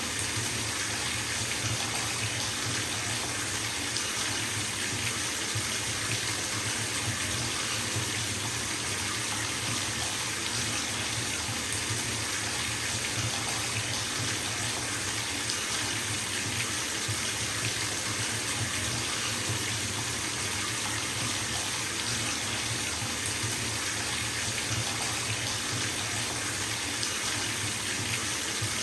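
Bathtub tap running steadily into the tub as it fills, a constant even rush of water with a low rumble underneath.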